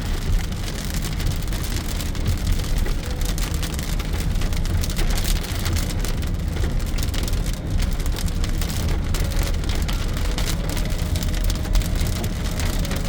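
Heavy rain pattering on the roof and windshield of a moving car, heard from inside the cabin, over a steady low road rumble.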